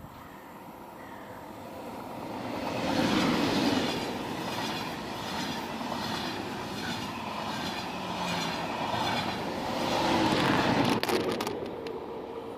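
A double-deck TGV high-speed train passing through the station at speed: a rush of wheel and air noise that builds up, swells loudest as the front goes by and again near the end of the train, with a regular clatter of the wheels over the rails in between.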